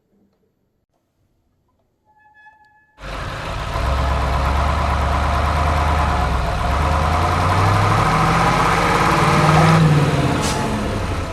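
A heavy engine, as of a truck, starting up about three seconds in and running loudly, its pitch climbing in steps as it revs.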